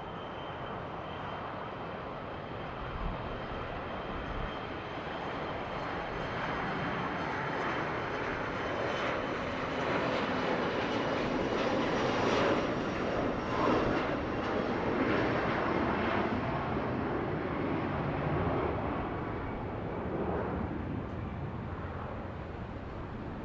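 Jet aircraft engines on a takeoff run and climb-out past the airfield. The roar builds to a peak about halfway through, then slowly fades.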